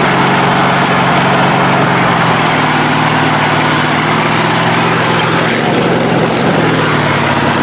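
Lifted riding-mower engine running steadily, its pitch shifting a little a couple of times. It is not running right, which the owner puts down to something blown out in the carburetor from pushing it too hard.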